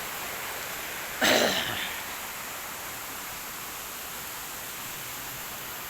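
Steady rushing hiss of a mountain stream. About a second in, a short, louder sound cuts in that falls in pitch, like a cough or a brief call.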